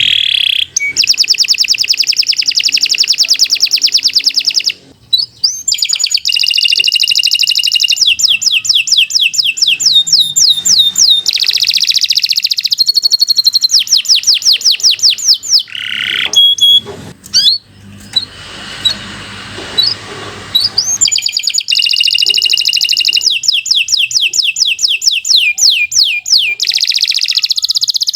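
Domestic canary singing a long, loud song of fast trills and rapid strings of repeated high notes, with a couple of brief pauses between phrases.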